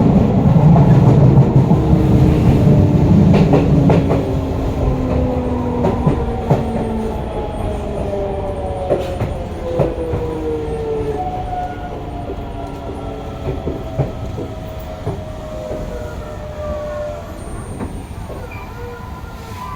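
Hokuso 7300-series electric train's GTO-VVVF inverter whining in several tones that fall slowly in pitch as the train brakes, over rail-joint clicks and wheel rumble. The rumble is loudest in the first few seconds, and the sound fades as the train slows toward a stop.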